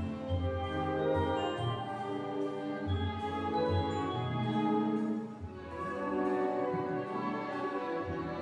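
An orchestra playing classical music: held chords from brass and strings, with a brief dip in loudness about five seconds in.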